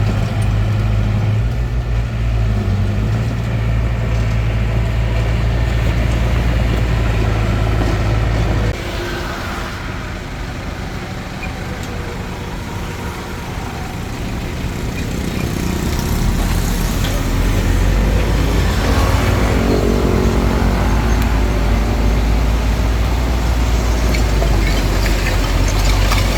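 Hitachi DX45M bulldozer's diesel engine running steadily under load. About a third of the way in the engine sound drops suddenly, and it builds back up from about two-thirds of the way in.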